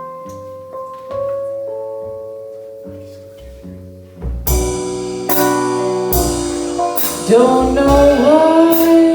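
Live band playing a slow jazz song: soft sustained keyboard chords at first, then drums with cymbal strokes and a bass come in about four seconds in, and a singer's voice starts about seven seconds in.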